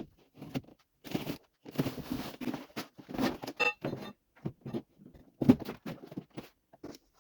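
Demolition of a wall: irregular crunching, tearing and knocking as wall material is pried and pulled away, with a brief squeak about three and a half seconds in.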